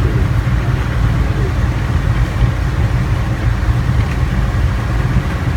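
River boat's engine running steadily: a loud, even, low drone.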